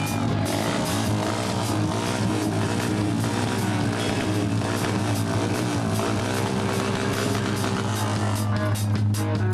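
Rock band playing live: electric guitar and bass over a drum kit, with the drum and cymbal hits coming thicker near the end.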